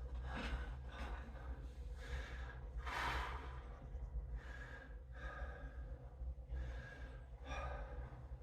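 A man breathing hard and sighing, out of breath from strength exercise, with about one deep breath a second; the strongest comes about three seconds in.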